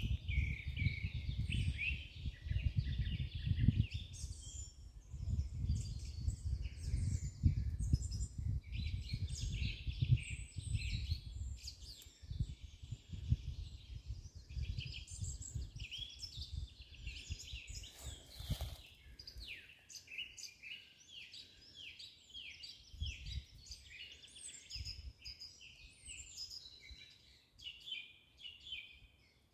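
A chorus of several wild forest birds singing and chirping, many short calls overlapping. A low rumble runs beneath it, heavier through the first two thirds and lighter toward the end.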